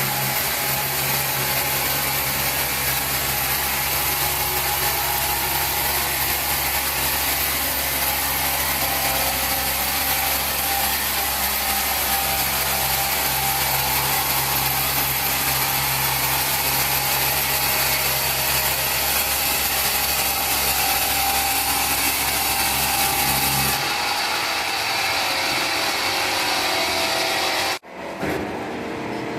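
Large sawmill saw cutting timber: a loud, steady cutting noise over the machine's low hum. The hum stops about 24 seconds in, leaving lighter noise, and the sound cuts off abruptly near the end.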